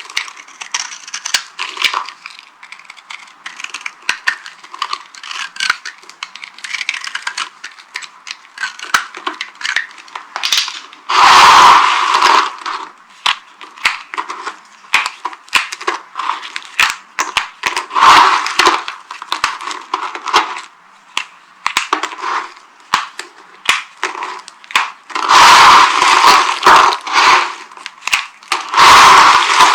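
Dry soap being crushed: a steady run of crackling snaps, with several louder, longer crunches, about 11 seconds in, around 18 seconds and twice near the end.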